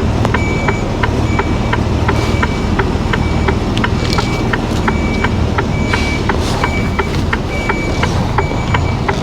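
Lorry reversing alarm beeping steadily, about once a second, over a diesel engine running, with rapid regular ticking between the beeps.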